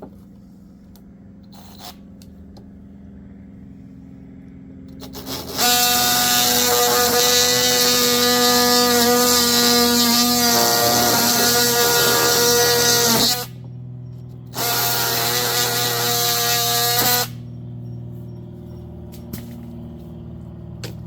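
Power saw cutting through PVC pipe, run twice. The first run starts about five and a half seconds in and lasts about eight seconds. After a short pause comes a second, shorter run of about two and a half seconds.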